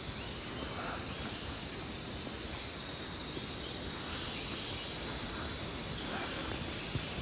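Steady forest ambience with insects chirping, and a few faint scattered calls.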